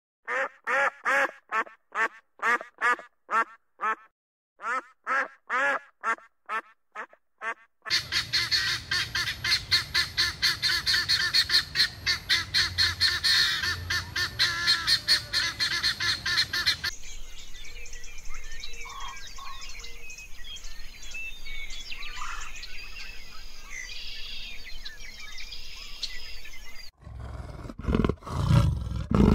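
Waterfowl quacking: first a run of short separate calls, about two or three a second, then a dense chorus of many birds calling at once, then quieter scattered calls. A loud deep animal call starts near the end.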